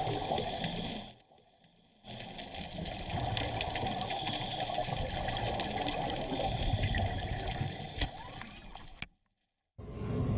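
Water noise from an underwater camera recording: a steady rush with fine crackling, broken by two short silent gaps, one just after the start and one near the end.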